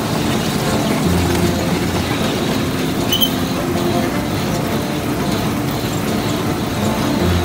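A vehicle engine running steadily, with a low hum that swells at times and a brief high chirp about three seconds in.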